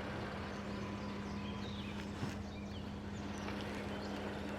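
A steady low hum, with a few faint bird-like chirps in the middle.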